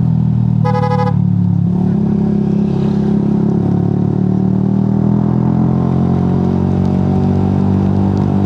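Honda Giorno scooter engine running steadily while riding. A short single horn beep sounds about a second in.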